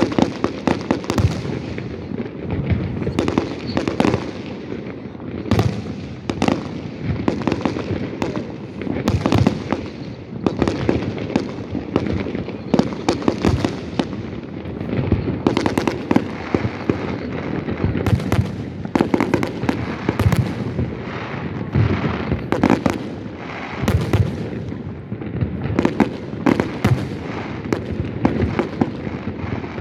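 Fireworks display going off continuously: a dense run of bangs and sharp cracks from bursting aerial shells, many overlapping, over a steady rumble.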